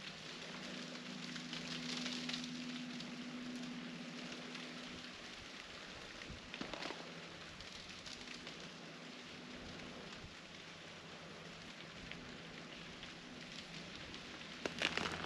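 Faint steady patter of freezing rain on ice-crusted trees and snow, with scattered small ticks. Near the end, louder crunching footsteps break through the ice crust.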